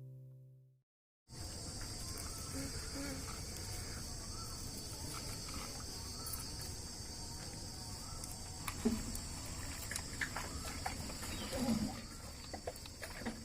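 A held musical note fades out, then after a brief gap a steady high-pitched chorus of insects such as crickets, over a low outdoor rumble, with a few small clicks and knocks toward the end.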